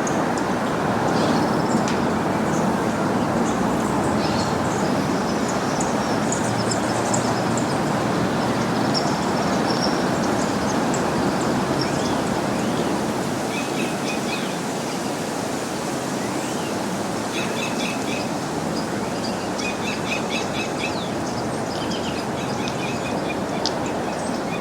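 Steady rushing background noise with small birds chirping and twittering over it, the chirps coming in quick repeated series more often in the second half.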